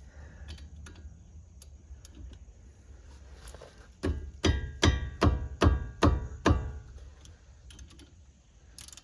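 A metal part struck about seven times in quick succession, roughly three strikes a second, each blow ringing like struck steel. Faint scattered clicks and knocks come before the strikes.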